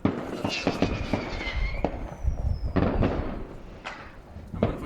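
New Year's Eve fireworks going off: a dense run of bangs and crackling, with two whistling tones gliding slightly downward in pitch in the first couple of seconds.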